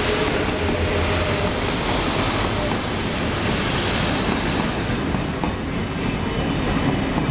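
Train pulling into a station, its cars passing close with a steady, continuous rumble.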